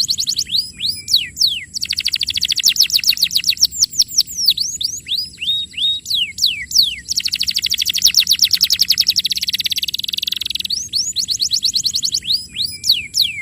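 Canary singing: fast rolling trills of rapid repeated notes alternating with series of falling whistled notes, phrase after phrase.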